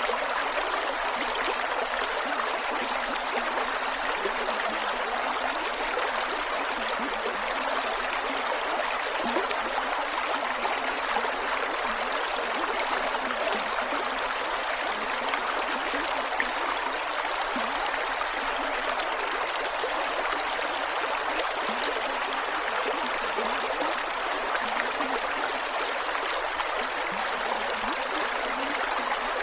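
Creek water flowing steadily over rocks, a continuous rush with small gurgles and trickles.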